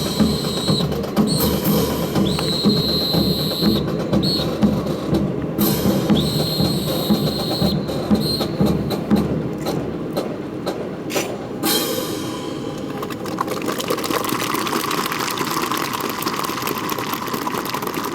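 Marching drum beat with long high tones sounding over it several times. The beat stops about ten seconds in, and a steady noise follows.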